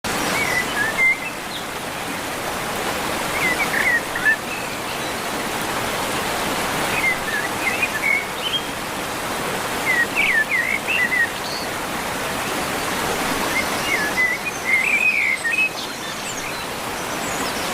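A songbird singing short warbling phrases, one every few seconds, over a steady rushing noise.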